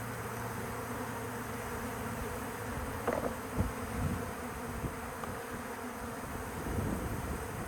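A colony of honeybees buzzing steadily, with a few short low thumps about three to four seconds in and again near the end.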